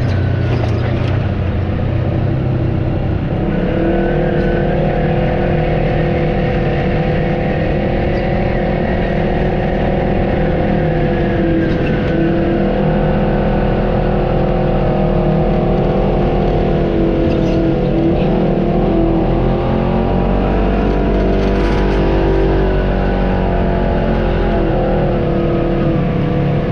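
Off-road vehicle's engine running steadily on the trail. Its tone grows stronger a few seconds in, then its pitch rises and falls a little with the throttle.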